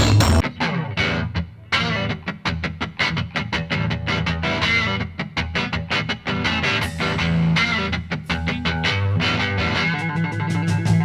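Music with fast, distorted electric guitar played loud through a carnival 'sound horeg' sound-system stack with 25-inch subwoofers. A heavy bass passage breaks off about half a second in, and a rapid rhythmic guitar part takes over.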